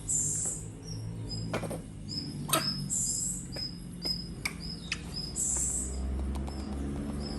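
Small birds chirping over and over in short high notes, with a brighter call about every two and a half seconds. A few sharp clicks or knocks come through, the loudest about two and a half seconds in.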